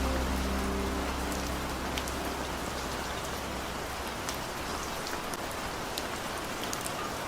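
Steady rain falling, an even hiss dotted with the clicks of individual drops.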